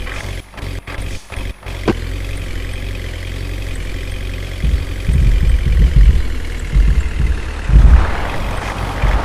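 A heavy twelve-wheel truck's engine running with a steady low rumble. From about halfway through it grows louder and uneven, in heavy low surges.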